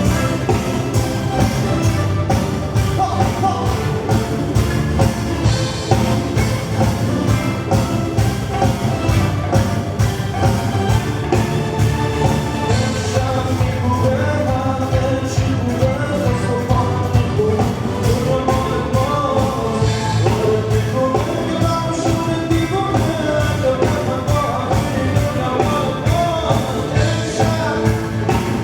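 Live band playing a song with a singer over a steady drum beat, with bass and keyboard, heard as a loud sound-check mix.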